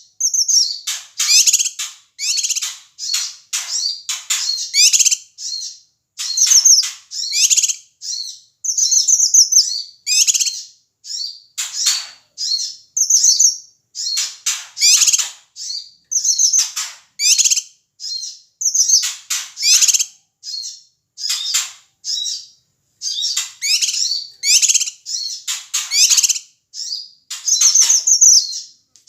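Cucak kinoi calling noisily: a fast, unbroken run of short, sharp, high chirps and trills with brief gaps between them, the agitated 'ribut' calling used to provoke other songbirds.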